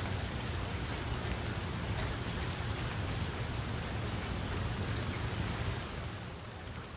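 Steady rain falling: an even hiss with scattered drop ticks and a low rumble underneath, easing slightly near the end.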